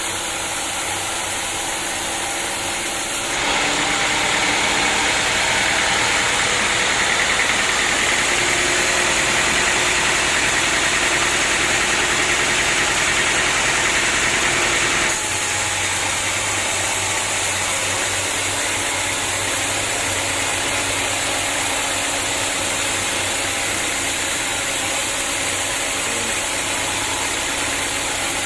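Sawmill machinery running steadily while cutting acacia wood: a continuous loud mechanical noise that jumps louder and brighter about three seconds in and drops back about fifteen seconds in.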